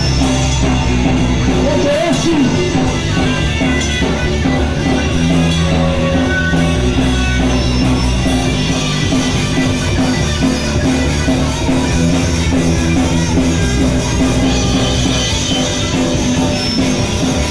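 Live punk rock band playing loudly: distorted electric guitars, bass and drum kit in a fast, dense, continuous wall of sound.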